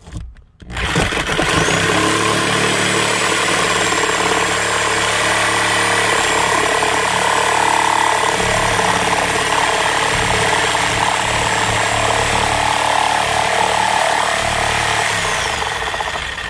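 Electric power tool motor running continuously for about fifteen seconds, starting abruptly just under a second in and winding down near the end, with a high motor whine over the noise of the tool working.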